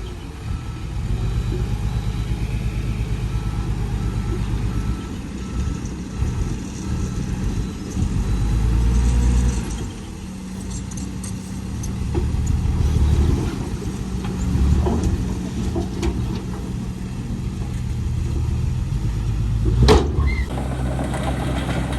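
Heavy diesel earthmoving machinery running, its engine rumble rising and falling with load. There is a single sharp knock about 20 seconds in.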